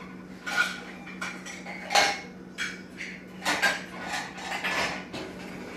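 Kitchen dishes and cutlery clinking: a cup being fetched and set down with cutlery, in a string of separate knocks at uneven intervals. A steady low hum runs underneath.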